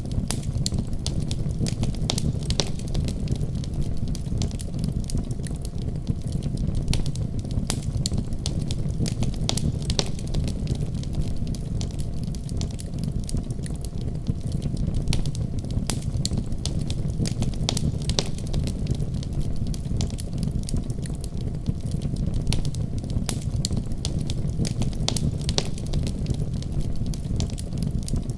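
Wood fire crackling steadily in a fireplace: many small sharp pops and snaps at irregular intervals over a low, even rumble of the flames.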